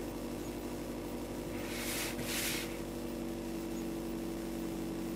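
Car engine idling steadily, heard from inside the cabin, with a short burst of hiss about two seconds in.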